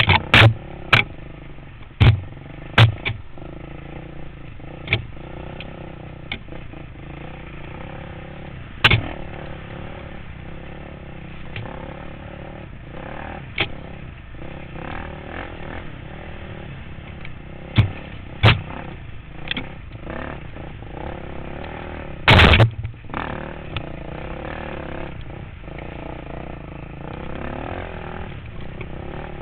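Dirt bike engine running, its pitch rising and falling, with scattered sharp loud knocks; the loudest is a short burst about 22 seconds in.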